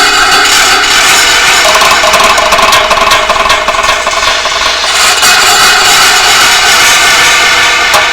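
Amplified DIY noise box played as an improvisation: a loud, dense, steady drone of noise with many overlapping tones, its texture shifting slightly about two and five seconds in.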